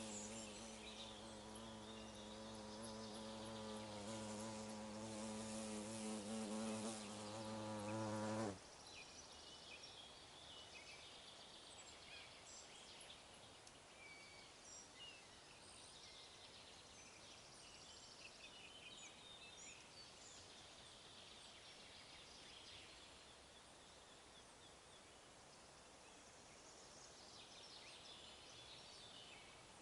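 A flying insect buzzes close to the microphone with a steady, slightly wavering hum that grows louder, then stops abruptly about eight seconds in. Afterwards only faint forest ambience remains, with scattered soft high chirps of small birds.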